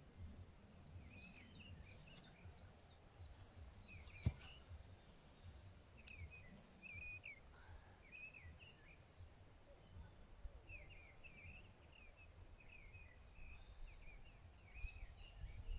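Faint songbirds chirping on and off over a low, uneven rumble of outdoor background noise, with one sharp click about four seconds in.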